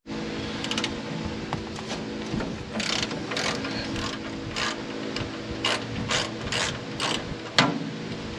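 Hand ratchet wrench clicking in short back-and-forth strokes, about two clicks a second, over a steady background hum.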